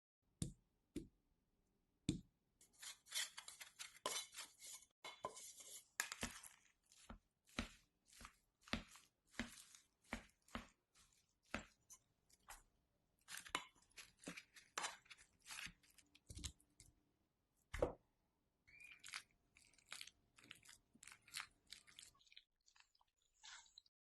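An irregular run of short, crisp scraping and cutting strokes, one or two a second, from food being handled and cut, with brief pauses.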